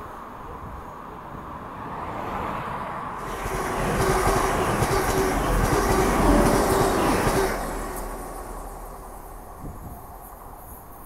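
TransPennine Express Class 185 diesel multiple unit passing close by. Its noise builds on the approach, is loudest for about four seconds in the middle as the carriages rush past, then fades as the train runs away.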